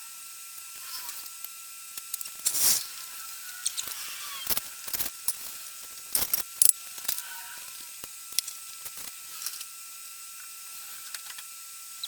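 Scattered knocks, clinks and rattles of tools and workshop odds and ends being handled and put away. The loudest knock comes about two and a half seconds in and a cluster follows just after six seconds, over a faint steady high tone.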